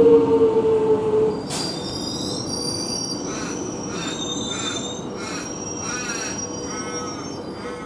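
X'Trapolis electric train slowing: its motor whine falls slowly in pitch and cuts out about a second and a half in. High-pitched squealing from the wheels follows, with several thin tones over a steady rumble.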